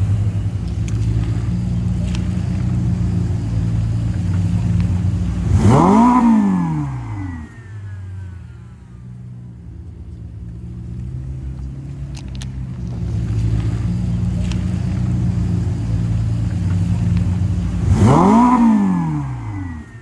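Car engines running steadily, with a hard rev twice, about six seconds in and again near the end. Each time the engine note climbs sharply and drops back within a second or two, and these are the loudest moments.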